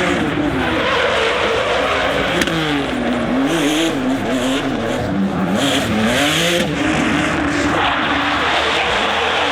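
Drift car engines revving up and down, the pitch rising and falling every second or so, over continuous tyre squeal.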